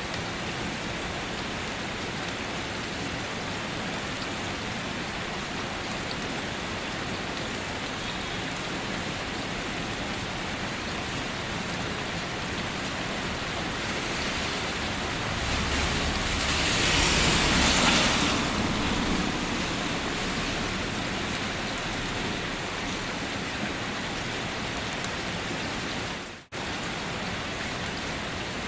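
Steady heavy rain, swelling louder for a few seconds past the middle, then a brief sudden dropout near the end.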